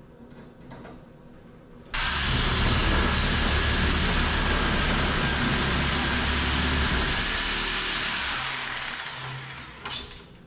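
Electric power tool switched on about two seconds in and run at steady speed for about six seconds, then released so its whine falls as the motor winds down, with a short blip of the trigger near the end.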